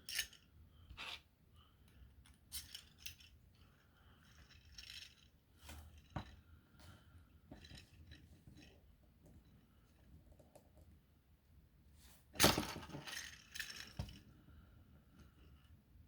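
Small 3D-printed plastic toy parts being handled and fitted together: scattered light clicks and clinks, with a louder clatter about twelve seconds in.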